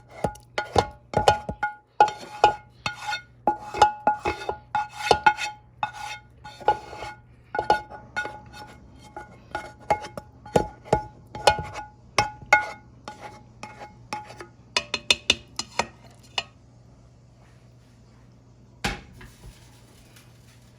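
A utensil repeatedly clanking against ringing metal cookware while spaghetti is mixed with sauce, irregular strikes that stop about three-quarters of the way through, with one more clack near the end.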